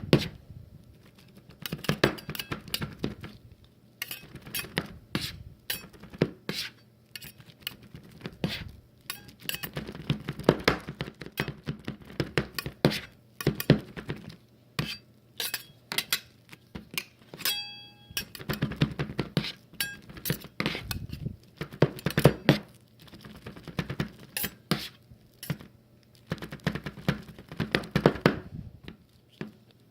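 Utensils chopping, tapping and scraping on a plate, a dense run of irregular clinks and knocks. About eighteen seconds in, a brief ringing tone sounds once.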